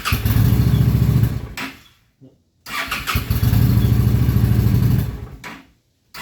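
A cold Honda Shadow 750 V-twin motorcycle engine, choke out, is started twice. Each time it fires and runs for about two seconds, then dies away. A third start begins at the very end. It is cold-blooded and won't keep running until it warms up.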